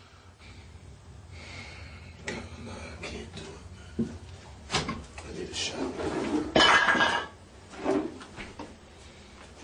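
Irregular knocks and clatter of objects being handled, with a few louder bangs in the middle.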